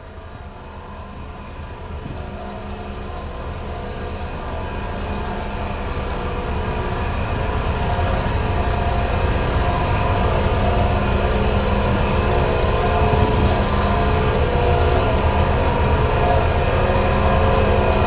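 Heavy diesel construction machinery running steadily, growing louder over the first eight seconds or so, then holding at a steady level.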